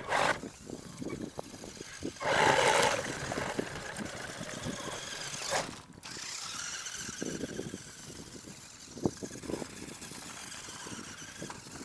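R/C monster truck driving over rough ground, heard from close by: a steady noisy rush full of quick knocks and rattles, with a louder rush about two seconds in.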